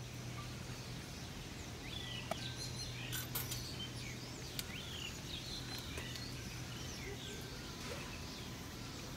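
Small birds chirping again and again, short falling calls, over a steady low hum. A few sharp clicks come about three seconds in.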